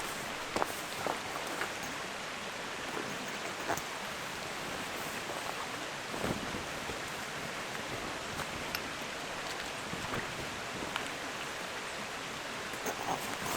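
Steady rushing outdoor ambience, like running water or wind through trees, with a few light clicks and knocks scattered through.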